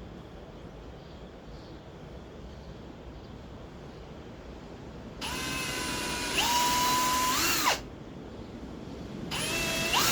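Power drill run twice in the second half, each time for a couple of seconds. The motor's whine steps up in pitch partway through the first run and rises just before it stops. Before that there is only faint room noise.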